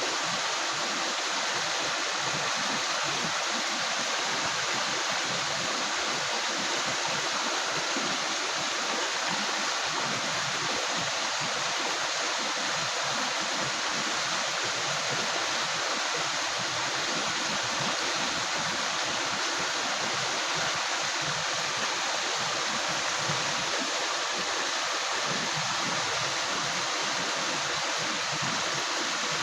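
A river's water rushing and gurgling steadily over rocks, a continuous even rush without pauses.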